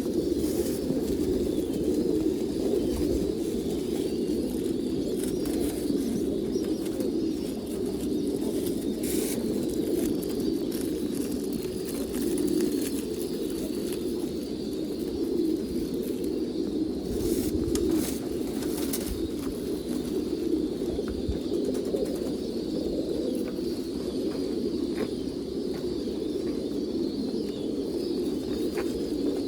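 A flock of pigeons cooing together, a steady, dense sound with no break. A few brief clicks or knocks come about a third of the way in and again past the middle.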